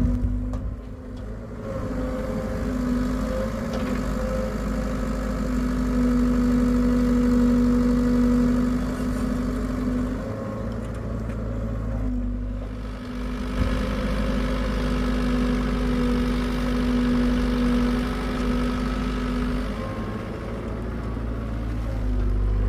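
Hitachi EX75UR excavator's diesel engine running under hydraulic load while digging, its steady hum swelling and easing twice as the work goes on.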